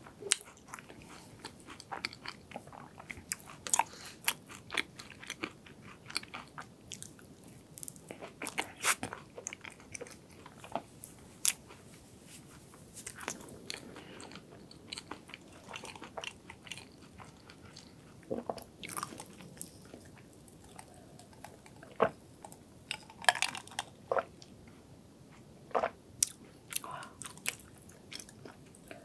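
Close-miked mouth sounds of a person chewing a mouthful of fudgy hazelnut chocolate cake, with irregular sharp wet clicks, then a sip from a glass of iced drink near the end.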